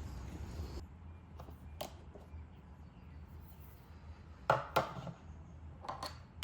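Tableware being handled: a few sharp separate clinks and knocks of utensils on dishes, the loudest two close together about four and a half seconds in.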